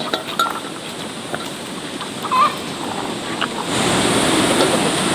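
Steady hiss of falling rain that swells sharply louder about three and a half seconds in, with a few short calls from poultry.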